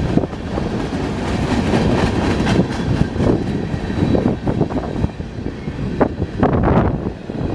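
Train rolling past, its railcars' wheels clattering and knocking irregularly on the rails over a steady rumble.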